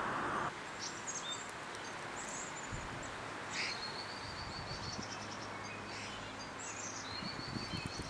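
Outdoor ambience with small birds chirping: scattered short high chirps, with a quick run of repeated notes about three and a half seconds in and more near the end. A steady hiss cuts off suddenly about half a second in.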